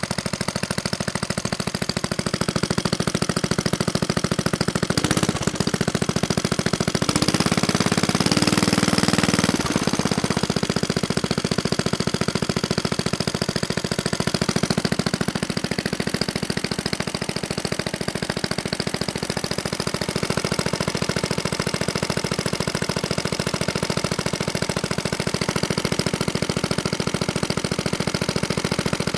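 Vintage Clinton small engine running steadily with a rapid, even firing beat; for a few seconds, about seven to ten seconds in, it runs louder with a shifting tone before settling back.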